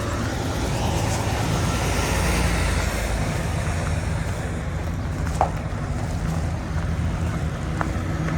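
Semi-truck diesel engine running steadily with a low hum, heard from the cab, with a single click about five seconds in.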